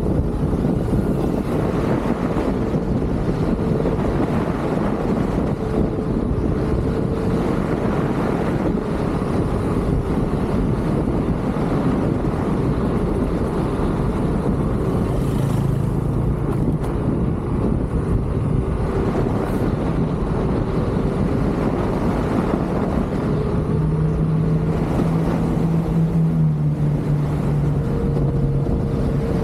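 Wind rushing over the microphone of an electric unicycle rider on the move, with a steady hum from the wheel's hub motor that grows stronger about halfway through and again near the end.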